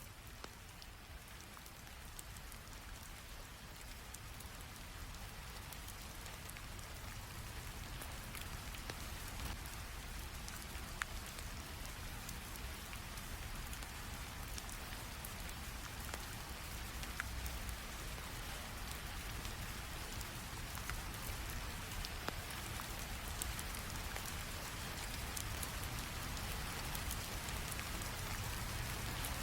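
Steady rainfall with scattered sharp ticks, slowly growing louder as it fades in.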